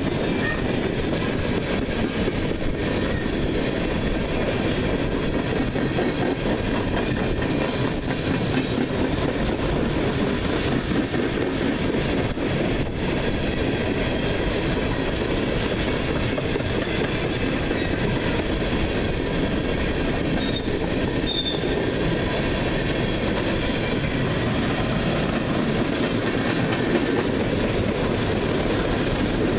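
Loaded coal hopper cars of a freight train rolling past at speed: a steady rumble and clatter of steel wheels on the rails, with faint high-pitched wheel squeal over it.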